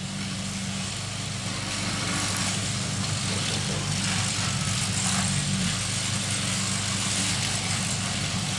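KRL electric commuter train passing in heavy rain: a steady low rumble under a wide hiss, growing louder over the first two seconds and then holding.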